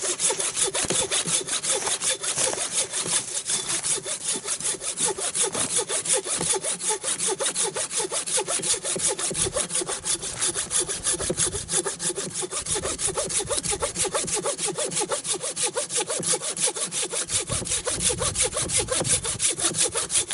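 Hand saw cutting through a frozen tree trunk, steady back-and-forth strokes at an even pace; the frozen wood saws cleanly.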